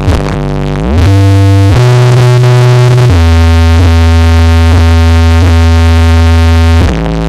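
Electronic dance music played loud through a carnival sound system for a sound check. About a second in, the beat gives way to a rising synthesizer glide and long held synth chords over a heavy bass. The chords change twice, and the beat comes back near the end.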